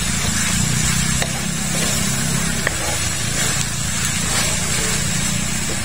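A steady low rumble, with pork and Chinese chorizo faintly sizzling in a metal wok and a few light scrapes of a wooden spoon stirring them.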